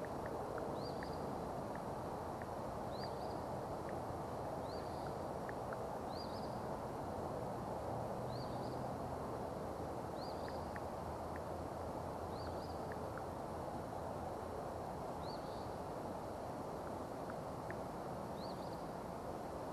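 A bird repeating a short, high, upward-hooked chirp about every one to two seconds, with faint ticks in between, over a steady background hiss of outdoor noise.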